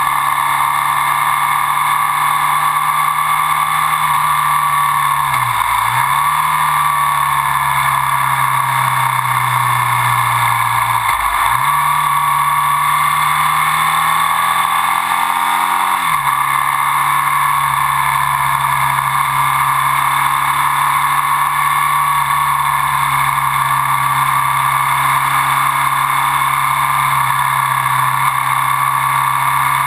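Ducati Sport 1000's air-cooled L-twin engine running under way, heard from a camera mounted low on the bike, its note holding steady and dipping briefly three times, about 6, 11 and 16 seconds in.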